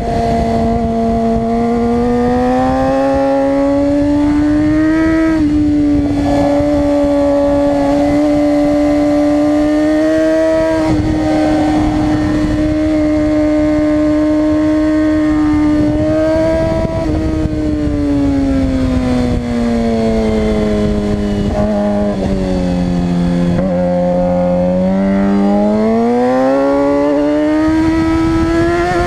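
Suzuki GSX-R 600 inline-four engine running hard at high revs on a racetrack. Its pitch climbs and eases with the throttle, drops slowly to its lowest about three quarters of the way through, then climbs again near the end.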